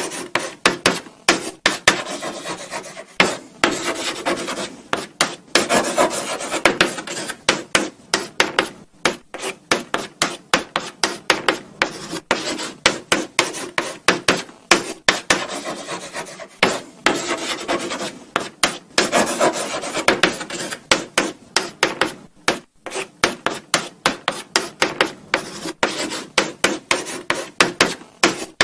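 Chalk writing on a blackboard: a run of short scratching strokes, broken by taps of the chalk on the board and brief pauses between letters.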